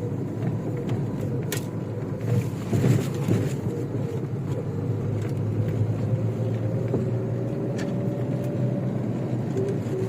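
Chevrolet Niva's engine running steadily under way, its pitch creeping up slowly and easing back near the end, with a few sharp knocks and rattles.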